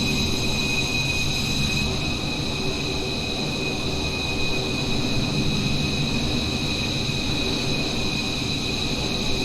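F-15 jet engines running steadily: a constant high whine over a low rumble.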